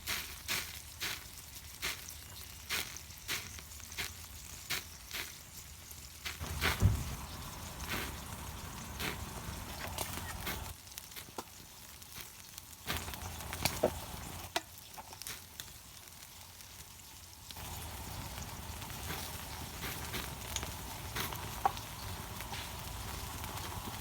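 Wagyu steak sizzling on a small iron griddle over a campfire, a steady frying hiss. Short clicks about two a second fill the first six seconds, a louder knock comes about seven seconds in, and scattered light ticks follow.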